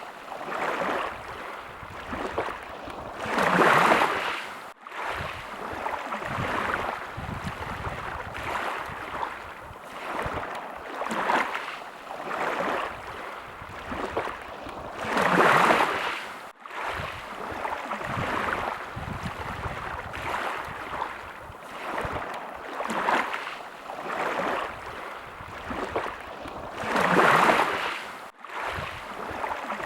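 Sea waves washing in, the surf swelling and ebbing every few seconds, with three larger waves about twelve seconds apart.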